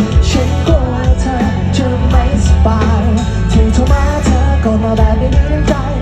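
A pop-rock band playing live: a lead singer over loud, steady bass and regular drum hits.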